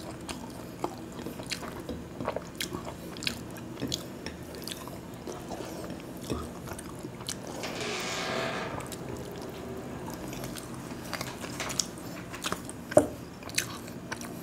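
Close-miked chewing and mouth sounds of a man eating fried egg and khichuri by hand, with many small wet clicks, a longer noisy stretch about eight seconds in and a sharper click near the end.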